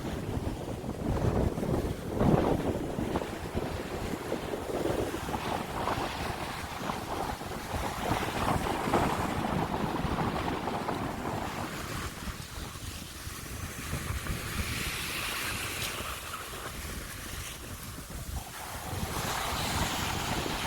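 Heavy wind buffeting the microphone over the rush of rough surf.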